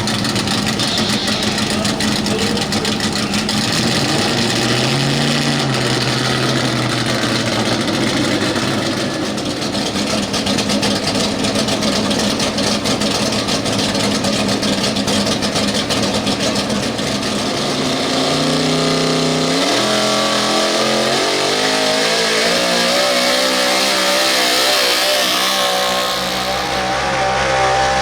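Street-class pulling truck's engine at full throttle hauling a weight-transfer sled, running loud and steady. About two-thirds of the way through the engine note climbs in steps, then wavers up and down.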